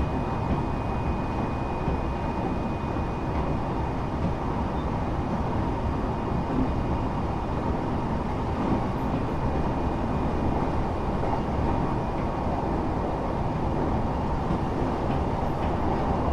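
Steady running noise of a train heard from inside the passenger car, with a faint steady whine and a thin high tone that fades out in the first few seconds.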